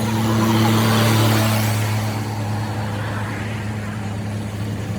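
Truck engine running steadily with a constant low hum, easing slightly quieter after about a second and a half.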